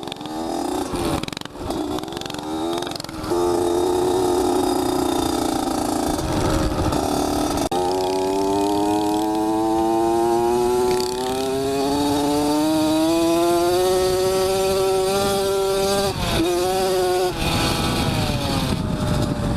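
Small motorbike engine running under throttle on the road. A few quick revs come in the first seconds, then the pitch climbs slowly and steadily for about eight seconds, dips briefly and settles again.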